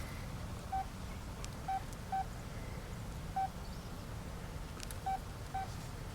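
Phone keypad tones: six short, identical beeps at uneven spacing as keys are pressed to dial.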